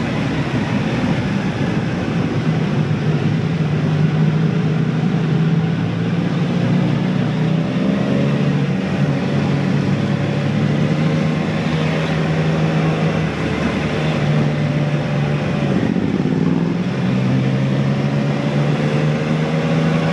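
Motorcycle engine and exhaust running at steady riding revs, with wind rushing over the microphone. The engine note eases off and picks up again a couple of times.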